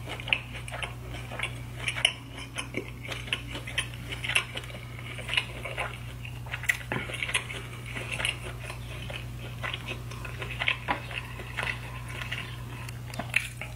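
Close-miked chewing of saucy seafood: irregular wet mouth smacks and short clicks, several a second, over a steady low hum.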